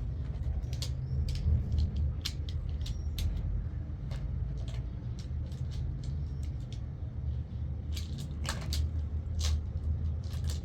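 Steady low rumble of a vehicle driving, with scattered clicks and knocks over it.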